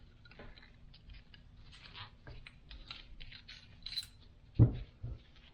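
Light clicking and scraping of thin metal shims being fished out of an FJ40 Land Cruiser steering gearbox, with a dull knock about four and a half seconds in and a softer one just after.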